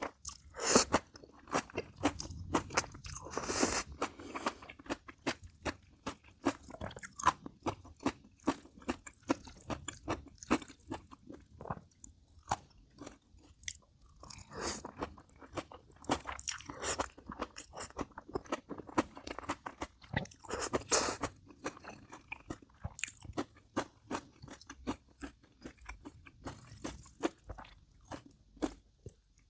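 A person eating bibim noodles with crunchy raw vegetables and kimchi, chewing and crunching steadily. The bites come as many short, crisp crunches, a few to several a second, with a handful of louder, longer crunching spells.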